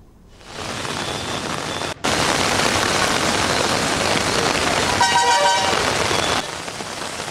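Steady rushing noise of heavy rain and street traffic, louder from about two seconds in. A vehicle horn honks briefly about five seconds in.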